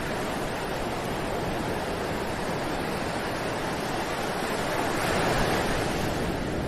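Ocean waves breaking and washing on a beach as a steady surf, swelling slightly about five seconds in.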